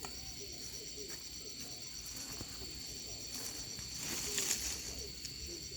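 Insects chirring steadily in the background, one a fast pulsing trill, with a brief rustle about four seconds in.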